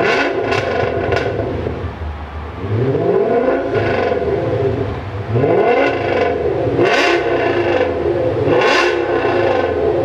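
Audi S6's 5.2-litre V10 through a resonator-delete catback exhaust, revved up three times, the pitch rising with each rev and held at high revs, with short sharp flares on top.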